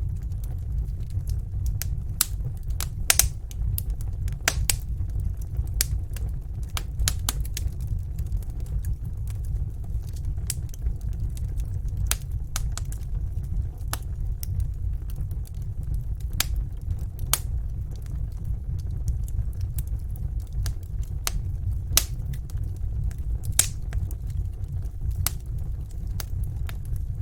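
Wood fire crackling and popping: irregular sharp snaps, several a second, over a steady low rumble of the flames.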